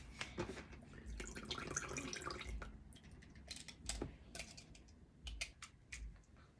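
Faint water drips and small splashes with light clicks and taps, as a plastic toy vehicle is washed in a container of water.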